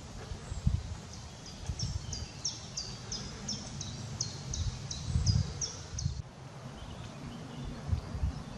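A songbird in the forest repeating a short, high, down-slurred note about two or three times a second, from about a second in until it breaks off about six seconds in. Underneath are irregular low thumps and rumble.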